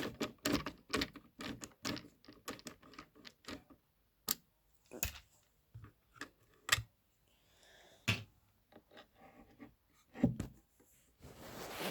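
Irregular clicks, knocks and scrapes of hands and tools working parts loose from a subwoofer cabinet during disassembly, with a longer scrape near the end.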